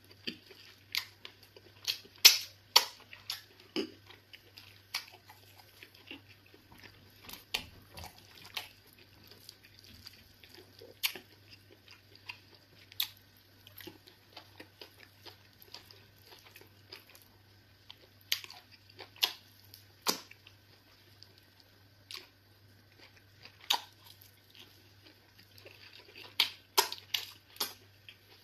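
A person chewing a mouthful of eba with egusi soup: wet chewing and lip-smacking clicks at irregular intervals, a few louder smacks about two seconds in and again near the end, over a faint steady hum.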